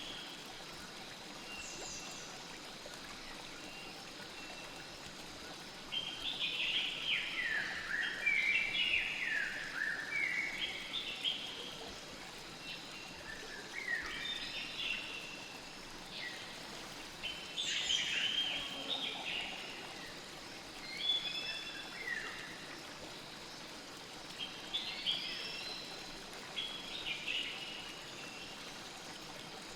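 Steady rush of flowing river water with a songbird singing bursts of quick, falling notes, phrase after phrase, about every three to four seconds from six seconds in.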